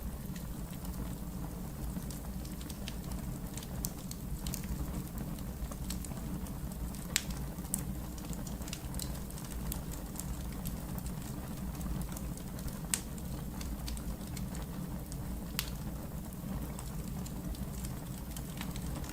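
Wood fire burning in a fireplace: a steady low rumble under light, constant crackling, with a few sharper pops scattered through.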